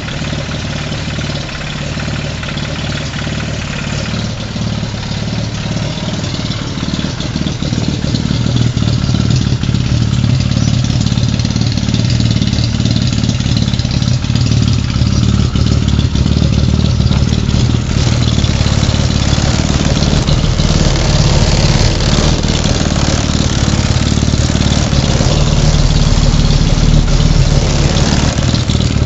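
Classic Mini's 1380 cc four-cylinder A-series engine running steadily, growing gradually louder over the half-minute.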